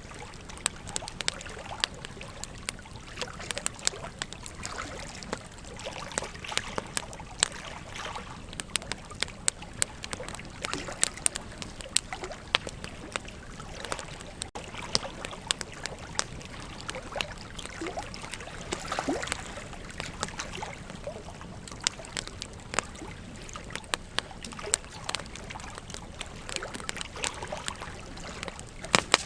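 Wood campfire crackling, with frequent irregular sharp pops and snaps over a steady rush of flowing river water.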